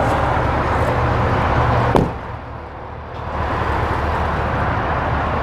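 An SUV door shuts with a single sharp thud about two seconds in, over a steady low rumble. Just after the thud the background drops away for about a second, then returns.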